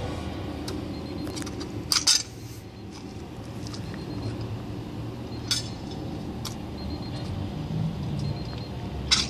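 Honda CRX D-series four-cylinder engine idling steadily through an aftermarket header and cat-back exhaust, with a few sharp clicks about two, five and a half, and nine seconds in.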